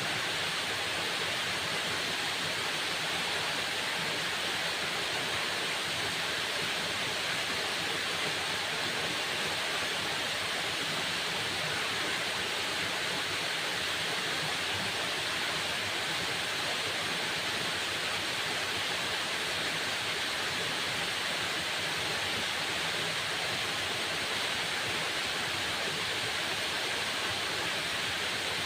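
Waterfall: water falling in a steady, unbroken rush, strongest in the hiss range, with no changes.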